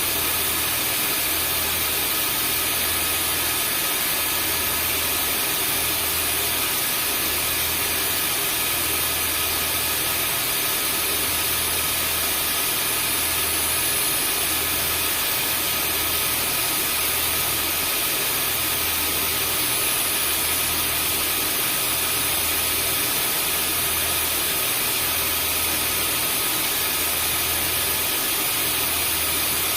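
Vacuum cleaner running steadily: a constant motor whine and airflow hiss with a few faint steady tones, over a low hum that pulses about every two seconds.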